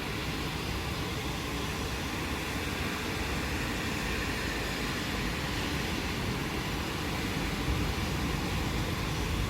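Steady rain falling, an even hiss, over a low rumble that grows a little louder in the second half.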